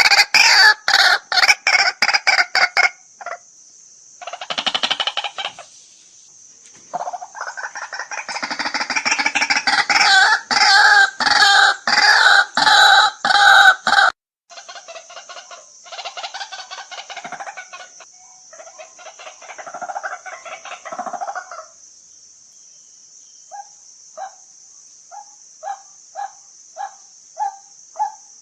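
White-breasted waterhen calling: loud, raucous bouts of rapid repeated notes that grow softer about halfway through, then give way near the end to a run of short separate notes about one and a half a second. A steady high hiss runs behind the calls.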